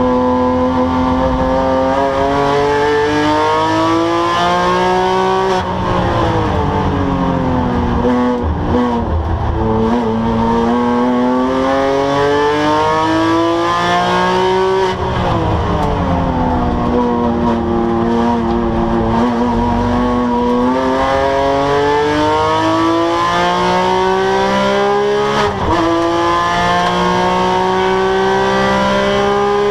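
Porsche 997 GT3 flat-six engine at racing speed on track, climbing in pitch under full throttle with gear changes about five and eight seconds in. Around halfway the pitch falls as the car slows for a corner, then it climbs again to another gear change near the end.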